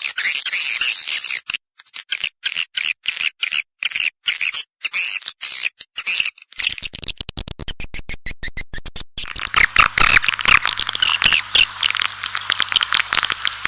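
Recorded swiftlet calls played as a lure call to draw swiftlets into a nesting house: high twittering chirps, with a stretch of rapid even clicking about halfway through, then denser overlapping chirping over a faint low hum.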